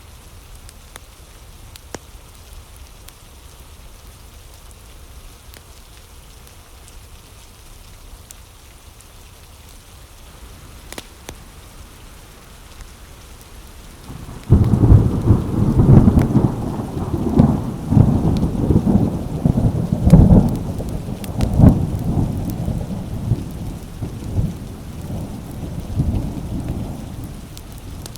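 Steady rain falling, then about halfway through a loud clap of thunder breaks in suddenly and rolls on as a low rumble in surges, slowly dying away near the end.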